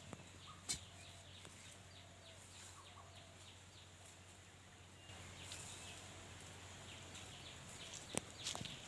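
Faint outdoor forest ambience with many short, faint bird chirps, and a few sharp knocks: one about a second in and two near the end.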